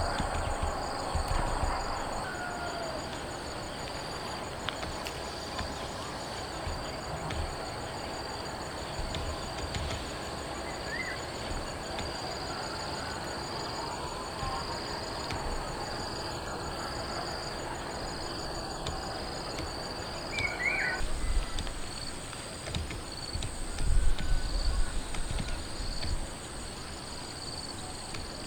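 Crickets and other insects chirping steadily in a fast, even pulse over a steady outdoor hiss, with two short bird chirps. Low rumbling bursts come in near the end.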